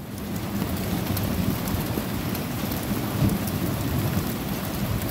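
Heavy rain pouring down, a steady hiss of rain falling on surfaces.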